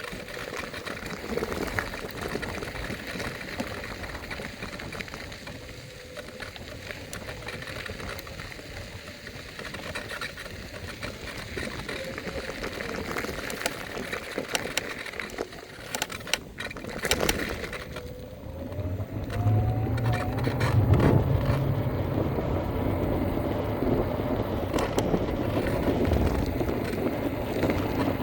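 Electric scooter riding: a thin, steady motor whine that rises in pitch about two-thirds of the way through as the scooter speeds up. Wind and road rumble grow louder at the same time, and a few sharp knocks come just before.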